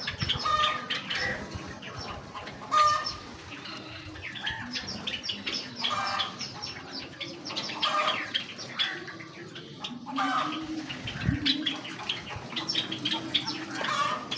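A large flock of Java sparrows chirping continually, many short overlapping chip notes, with wings fluttering as birds flit about.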